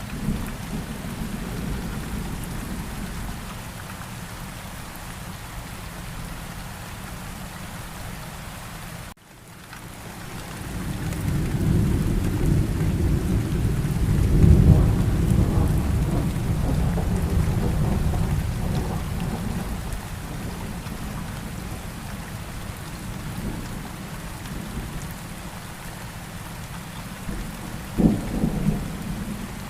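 Steady rain falling, with a long roll of thunder that builds from about ten seconds in, peaks a few seconds later and dies away, and a short rumble near the end. Just before the long roll, the sound cuts out for a split second.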